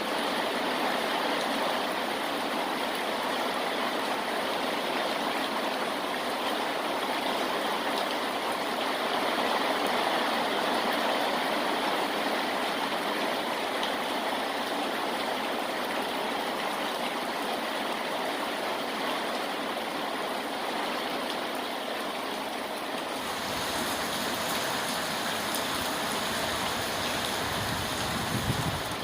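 Steady rainfall, an even wash of noise. About 23 seconds in the sound changes, gaining a low rumble.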